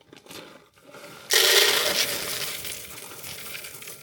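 Dry bird feed poured from a bag into a container: a sudden rush of many small hard pieces about a second in, tailing off into a lighter patter.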